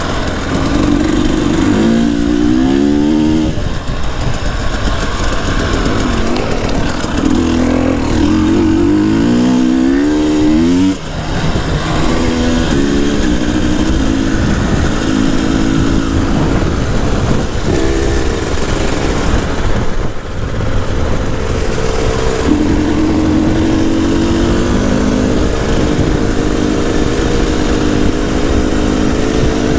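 KTM 300 TPI two-stroke enduro engine under way on a dirt road, revving up through the gears. The pitch rises steeply twice in the first ten seconds or so, with a brief drop about eleven seconds in, then the engine runs at steadier, stepped speeds.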